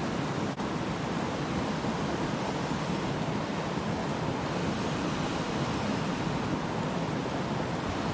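Steady rushing noise with no distinct events, dipping briefly about half a second in.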